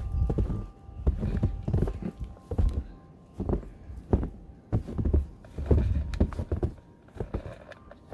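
Footsteps on snow covering an unshoveled wooden deck, an irregular run of dull thumps about one or two a second.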